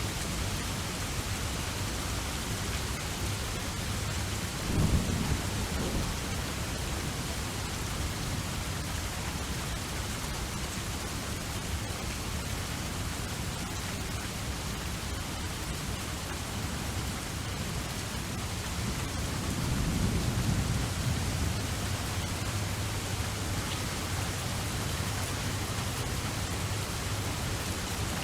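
Steady rain falling, with two low rolls of thunder, one about five seconds in and a longer one about twenty seconds in.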